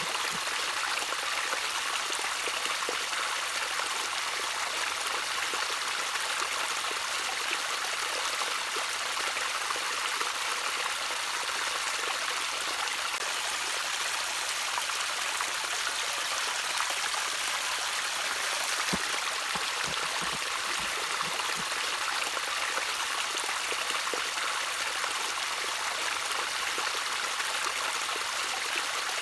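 Shallow stream of water trickling and splashing steadily over stones, a constant bright hiss of flowing water with small splashes.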